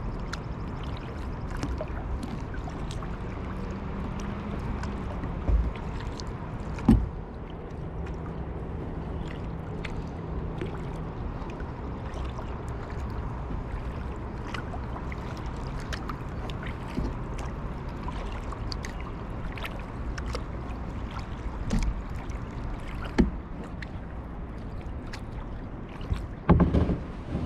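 Kayak paddling on a lake: steady water noise with many small drips and splashes from the paddle, and a few louder knocks or splashes scattered through.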